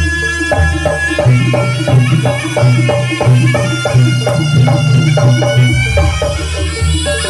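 Live jaranan (kuda lumping) band playing an instrumental passage: drums keep a quick, even beat of about three strokes a second over sustained melody and a moving bass line.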